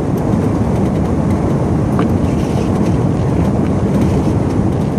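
Steady engine and road rumble heard inside the cab of a pickup truck driving on a snow-covered, unplowed road.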